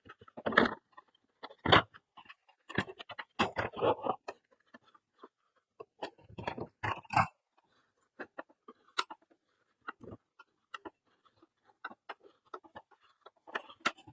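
Hands working a vacuum cleaner's power cord and plastic cord-reel parts: irregular clicks, knocks and short rustling scrapes, busiest in the first half and sparser later.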